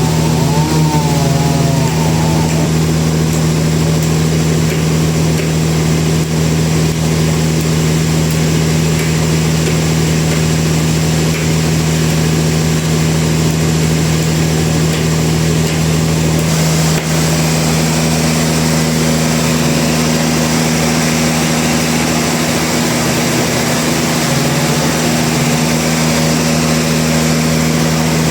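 Sawmill machinery running steadily, a constant loud machine hum. About seventeen seconds in, a brighter hiss joins and stays.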